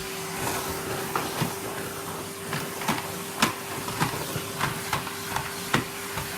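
Numatic Henry vacuum cleaner running with a steady motor hum and suction hiss, while wood shavings and debris clatter up the hose in irregular sharp clicks.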